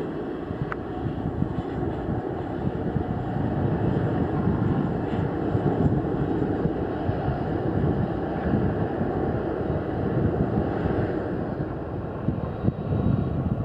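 Jet engines of a large airliner running steadily, a dense low rumble with no sharp events.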